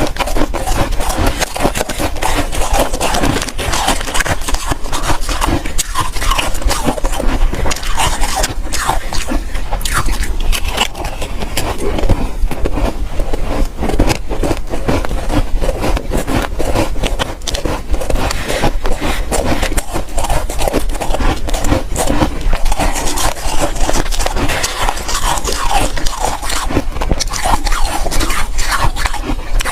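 Soft, powdery ice being crunched and chewed close to the microphone: a dense, continuous run of fine crackling crunches.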